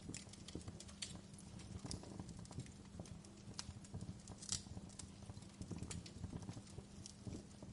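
Wood fire crackling in a fireplace: irregular sharp pops and snaps over a steady low rumble of flames, with the loudest pop about four and a half seconds in.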